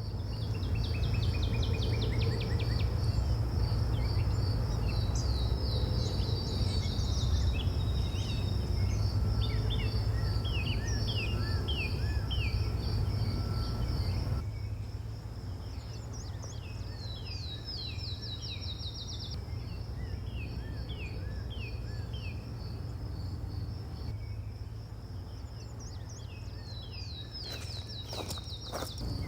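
Bush ambience: an insect trilling steadily in fast, even pulses while birds call in runs of quick falling notes, over a low rumble. About halfway through, the sound drops in level and the rumble thins, as at a cut.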